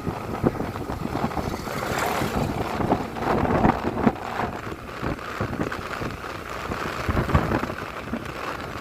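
Wind buffeting the microphone on a moving motorcycle, an uneven rushing rumble with road and traffic noise underneath.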